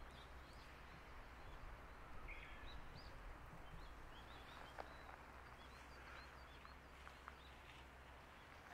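Faint birdsong: small birds chirping in many short, high notes over a quiet, steady low rumble.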